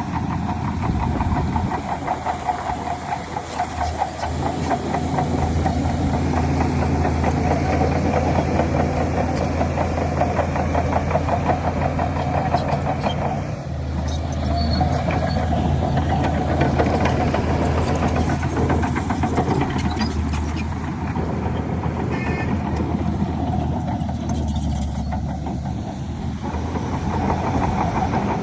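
Shantui DH17 crawler bulldozer's diesel engine running steadily, with a dense rapid clatter over the drone. The engine note shifts about 4 seconds in and again about halfway through.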